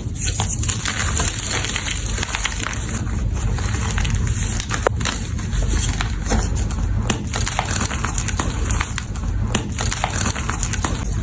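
Gym chalk being crushed and crumbled: a steady run of fine powdery crunching and crackling, with a few sharper cracks along the way.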